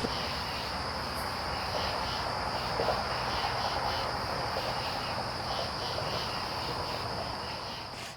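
Insects chirping outdoors, most likely crickets: a steady high-pitched trill with a faint pulsing chirp underneath, over low background noise.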